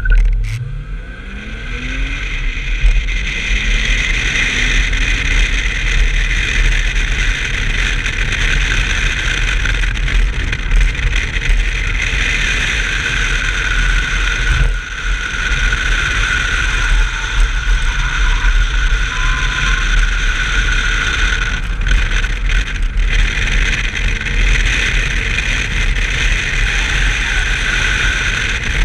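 1990 BMW 325i's straight-six engine pulling hard from a start, its pitch climbing over the first few seconds, then running at high revs at a near-steady pitch, with a constant low rumble underneath.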